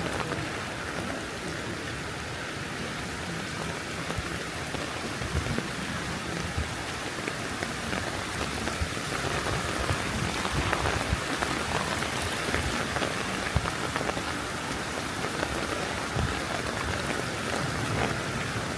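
Heavy rain falling steadily, with a dense patter of individual drops striking close by; it grows a little heavier around the middle.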